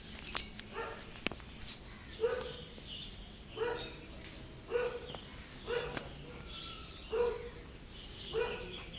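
Stray cats meowing softly: about seven short meows, each under half a second, repeating roughly once a second. The uploader takes the calls for hungry strays asking for food.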